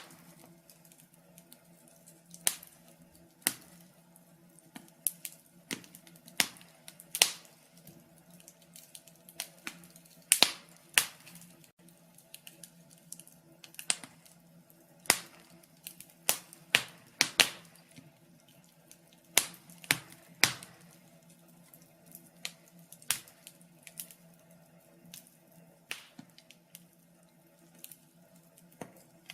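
Wood fire crackling in a fireplace: irregular sharp pops and snaps, bunched in places and spaced out in others, over a faint steady low hum.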